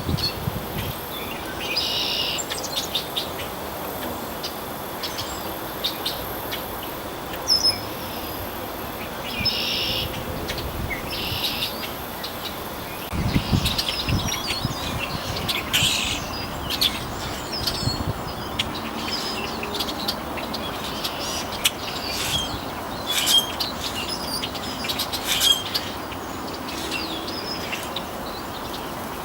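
Birds chirping and calling: many short high chirps throughout, with a few short harsh calls. A brief low rumble about 13 seconds in.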